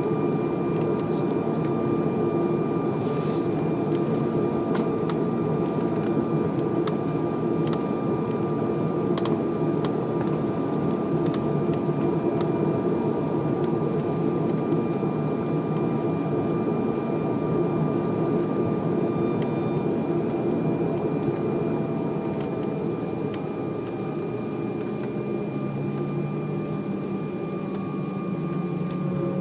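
Steady cabin noise inside an Embraer E190 jetliner on the ground: the turbofan engines run with a constant whine over a rushing air-conditioning hiss. The noise eases slightly about two-thirds of the way through, and its pitch shifts near the end.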